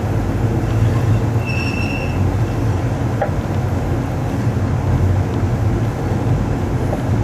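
Amtrak Coast Starlight passenger train running, a steady low rumble heard from inside the rear car. About a second and a half in, a brief high-pitched wheel squeal as the train rounds a curve.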